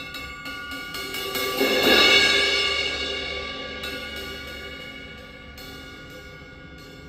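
Cymbal played with quick light strokes that build to a loud swell about two seconds in, then ringing and slowly dying away under a few more soft taps.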